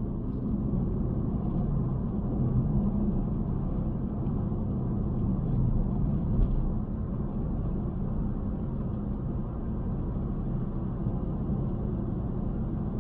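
A small car driving along, heard from inside the cabin: a steady low rumble of engine and tyre noise.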